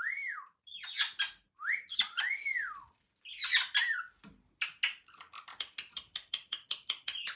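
Pet parrot calling: two rising-and-falling whistles mixed with harsh squawks, then a fast run of short clicking notes.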